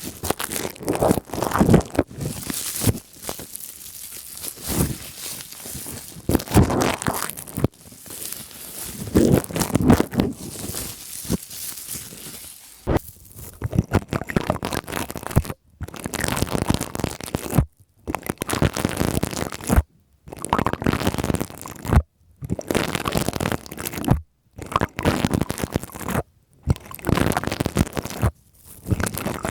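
Plastic crinkled and scratched right against the microphone, then, about halfway through, fuzzy pipe cleaners rubbed over the microphone in strokes that come with short breaks about every two seconds.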